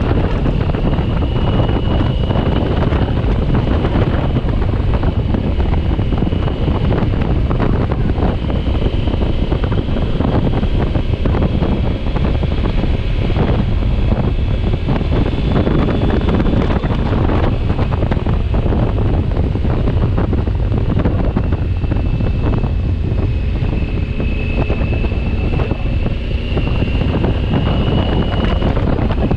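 Steady wind noise buffeting the microphone at riding speed on a 2020 Honda Africa Twin motorcycle, over a constant low rumble of engine and road, with a faint high whine that drifts slightly in pitch.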